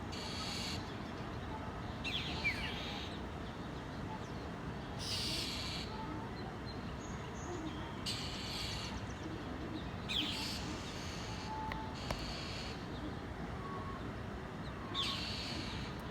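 Songbirds giving short, harsh, scratchy calls every one to three seconds, some with a quick falling sweep: alarm calls of birds mobbing a cat. A steady background hiss lies underneath.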